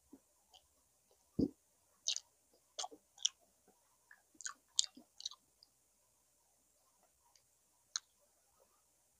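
Close-miked eating sounds of someone chewing boiled pig's tail: wet chewing, lip smacks and sharp mouth clicks, irregular and busiest in the first half, with a dull knock about a second and a half in. The second half is mostly quiet apart from a single click near the end.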